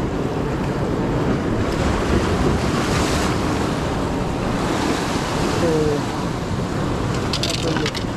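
Ocean surf washing against jetty rocks, with one wave surging about three seconds in, and wind buffeting the microphone. A few faint clicks come near the end.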